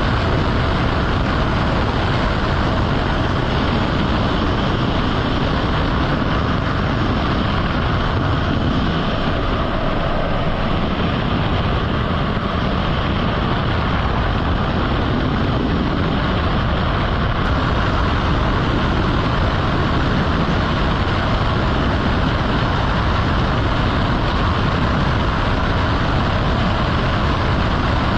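Jet engines running with a steady, unchanging noise, with no rise or fall of a pass overhead.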